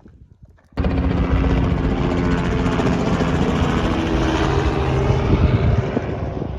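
An aircraft engine droning steadily, with a few fixed engine tones under a rushing noise. It starts abruptly about a second in and eases off near the end.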